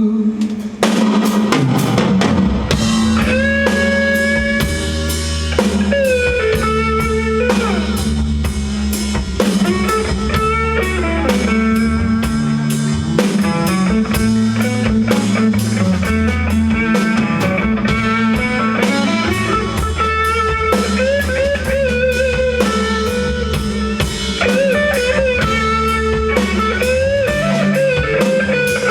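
Rock band playing an instrumental passage live: a sustained, bending electric guitar melody over a driving drum kit and bass, with no vocals.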